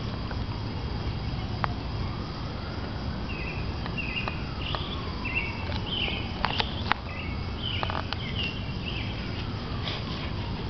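Outdoor yard ambience: small birds chirping in short repeated calls over a steady low rumble, with a faint tone slowly rising and falling and a few sharp clicks.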